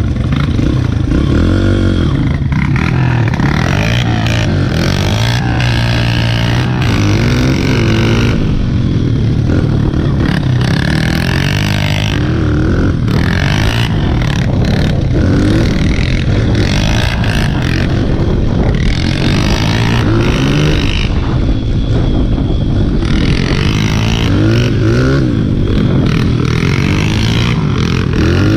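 Dirt bike engine being ridden, its pitch rising and falling over and over as the throttle is opened and closed.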